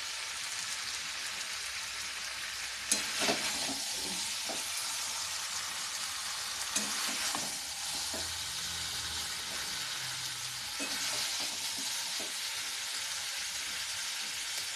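Chicken curry with potatoes sizzling in oil in a pan as it is stirred, with a steady frying hiss and a few sharp knocks of the spatula against the pan, the loudest about three seconds in. The masala is frying down nearly dry before water is added.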